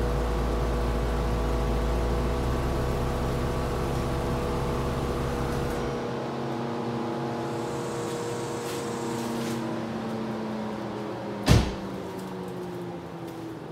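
2011 Mercedes-Benz C300's V6 engine idling, then switched off about six seconds in; its steady hum falls slowly in pitch afterwards as it winds down. A single sharp knock near the end.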